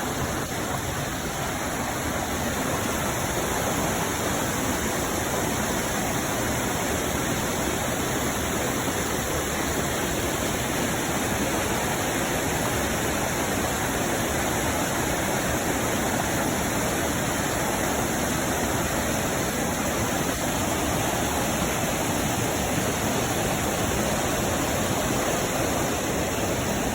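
Waterfall and rain-swollen creek rushing, a steady, even roar of falling and flowing water.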